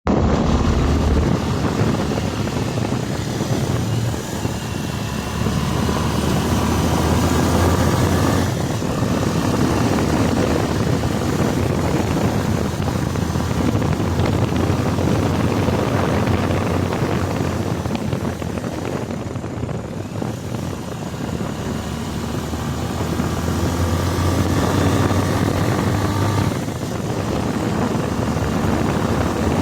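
Motorcycle engine running under way with heavy wind rush on the microphone, its note and level shifting a few times as the throttle changes.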